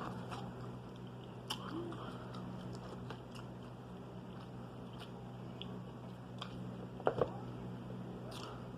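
A person chewing and biting food close to the microphone, with scattered faint mouth clicks and a brief louder sound about seven seconds in, over a steady low room hum.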